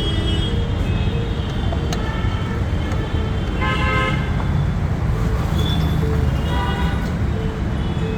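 Road traffic running past with a steady rumble, and vehicle horns honking twice, about four seconds in and again near seven seconds.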